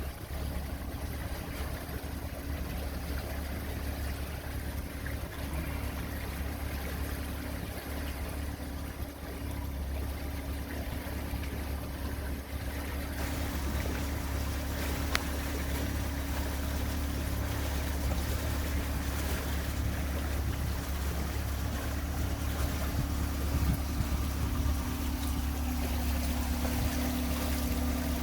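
Hurricane deck boat under way: the engine runs steadily with a low rumble, mixed with wind and water noise that grows somewhat louder in the second half.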